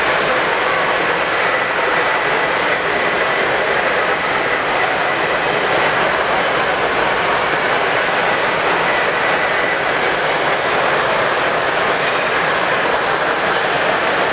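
Steady, unbroken din of a crowded exhibition hall, an even wash of noise with no single event standing out.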